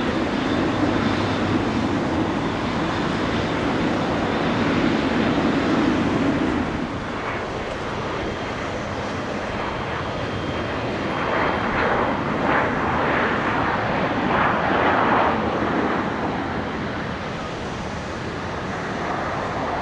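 Jet airliner engines running, a steady rumble that eases about seven seconds in and swells again for a few seconds later.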